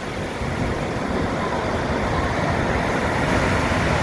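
Stormy sea surf rushing and breaking on the shore with wind buffeting the microphone, a steady noise that swells a little about a second in.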